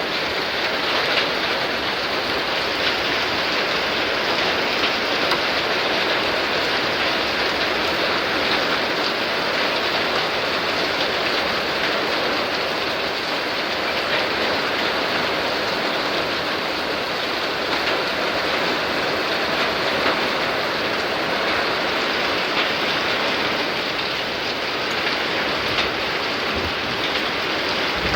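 Heavy thunderstorm downpour, rain falling steadily with a constant hiss.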